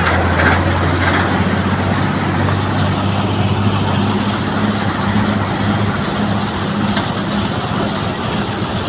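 A truck engine running steadily at idle with a low, even hum.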